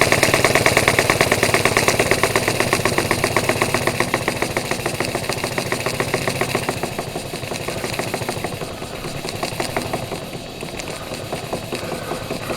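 Scratch-built oscillating steam engine running fast on live steam, with no exhaust pipe fitted: a rapid, even train of exhaust beats. From about halfway the beats grow quieter and more ragged.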